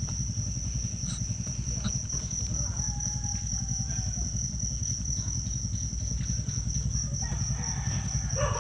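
Crickets chirping in a steady high, unbroken chorus over a low, steady rumble.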